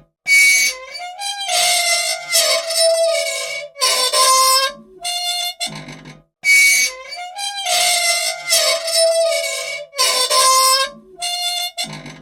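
Squeaky old machine squealing: a run of short, high, pitched squeaks and groans in bursts. The same sequence repeats about every six seconds. It is the squeal of dry parts that want oil.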